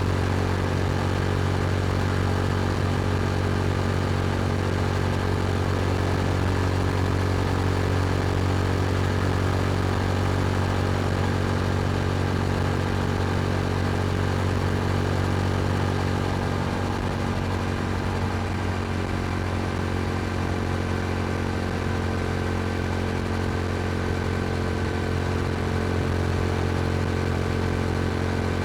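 Yamaha R7's 689 cc parallel-twin engine through an Akrapovic exhaust, running at steady revs while cruising. It gets a little quieter just over halfway through.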